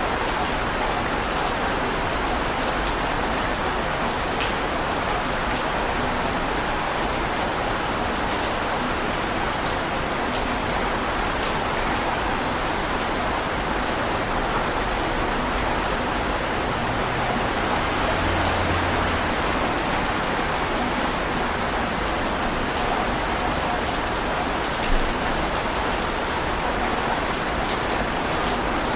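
Heavy rain falling steadily, with scattered single drops ticking over it and one sharper tap about 25 seconds in.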